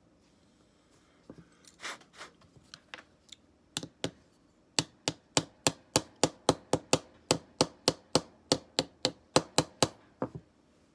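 Sharp taps during work on a folding knife: a few scattered at first, then a steady run of about three and a half a second for around five seconds.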